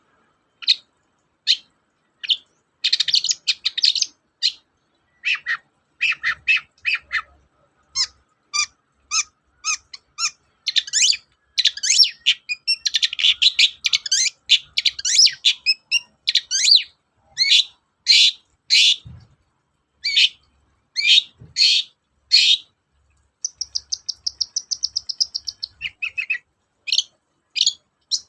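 Long-tailed shrike (cendet) singing: quick strings of short, sharp, high notes with brief pauses between phrases, and a fast rattling trill about two-thirds of the way through.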